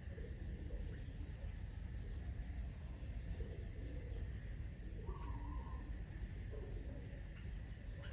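Birds giving short, high chirps again and again, with one lower call about five seconds in, over a steady low rumble.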